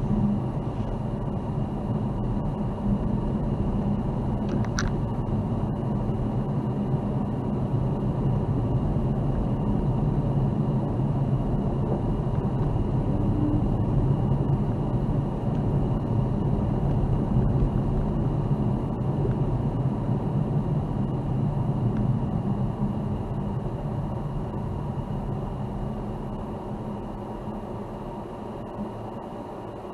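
Car driving: a steady low rumble of engine and road noise, with one short sharp click about five seconds in. The rumble eases off over the last few seconds.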